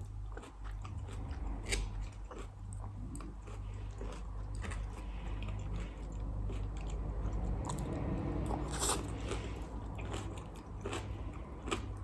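Close-miked chewing and crunching of salad, with irregular crisp bites and crackles in the mouth. A steady low hum runs underneath.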